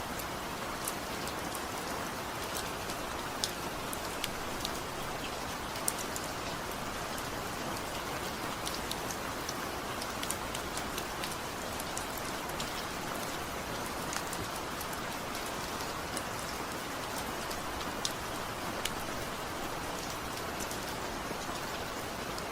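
Heavy, steady rain with no thunder, an even rush with many sharp individual drops pattering on a surface.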